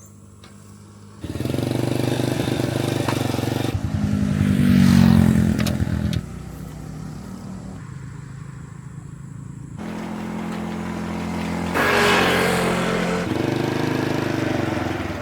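A motorcycle engine running on the road, with the sound swelling and easing a couple of times. The sound changes abruptly several times.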